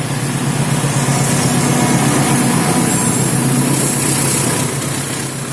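A train passing close by: steady loud noise of the train running on the rails, with a low engine hum.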